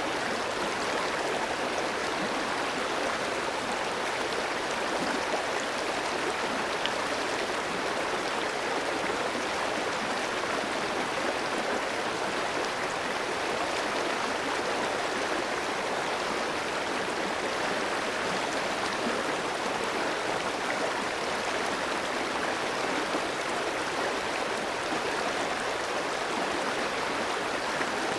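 A clear stream rushing steadily over rocks, an even, unbroken water noise.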